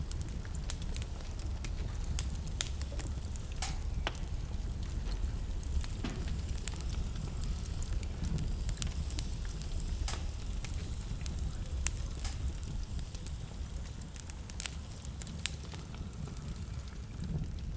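Wood fire in a fireplace burning steadily, with a low rumble of flames under frequent sharp, irregular crackles and pops.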